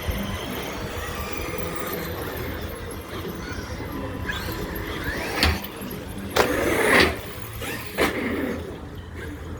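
Radio-controlled cars driving, their electric motors whining and changing pitch, with three loud sudden bursts of noise a little past halfway through.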